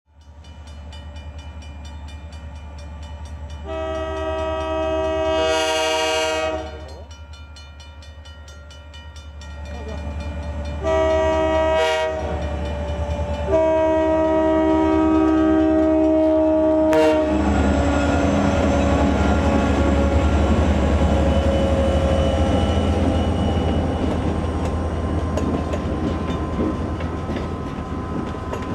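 Diesel freight locomotives approaching and sounding a multi-note air horn: a long blast, a shorter one, then another long one. The engines then rumble past, and the freight cars roll by with their wheels clacking on the rails.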